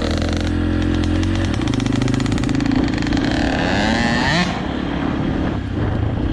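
Dirt bike engine running, with the revs climbing for about a second and a half near the middle and then dropping off sharply.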